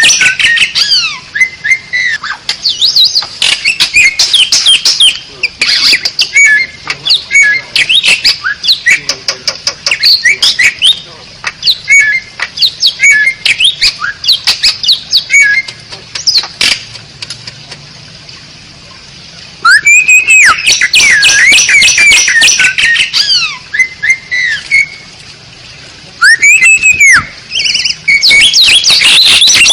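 Asian pied starling (jalak suren) singing: a loud, varied run of whistled glides, rapid chattering notes and harsh squawks. The song eases off for a few seconds about two-thirds of the way through, then breaks out again in dense bursts.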